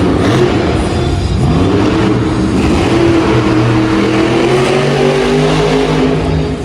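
Monster truck engine revving hard: its pitch climbs from about a second and a half in, holds high, and eases off near the end.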